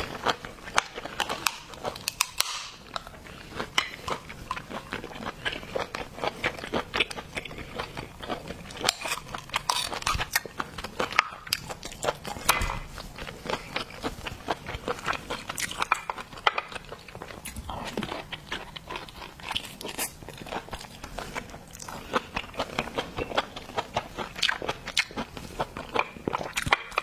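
Close-up eating sounds: biting and crunching through crayfish shell and claws, with chewing, a dense, irregular run of sharp cracks and clicks.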